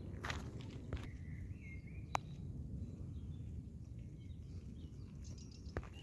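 Low outdoor rumble of wind and handling noise on the microphone, with a few light clicks. A bird gives one short warbling chirp about a second and a half in.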